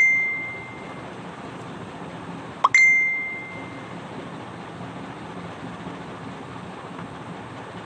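Two bright bell-like dings, each a quick upward swoosh ending in a clear ringing chime that fades over about a second. The first rings on from the very start and the second comes about three seconds in, over a faint steady hum.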